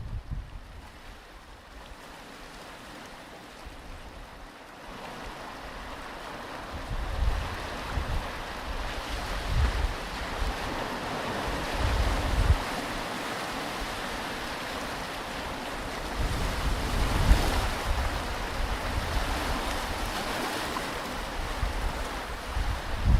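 Ocean surf washing on a beach, swelling about five seconds in and strongest around the middle, with low gusts of wind buffeting the microphone now and then.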